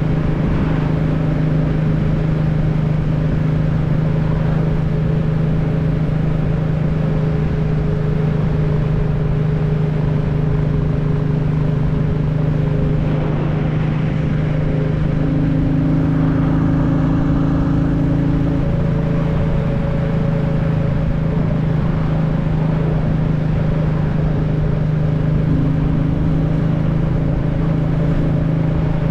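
Motorcycle engine running at a steady cruise on the open road, with low wind rumble on the microphone.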